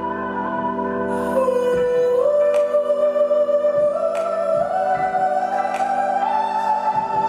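Live music: a held, wavering melodic tone, voice or synth, climbs slowly in several steps, over a sustained backing with sharp percussive clicks about once a second.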